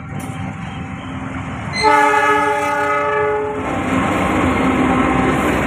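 A train's horn sounds about two seconds in, one chord held for under two seconds, over the rumble of a train passing close by that grows louder and continues after the horn stops.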